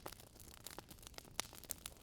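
Wood fire crackling: irregular sharp pops and snaps of burning logs over a faint steady hiss.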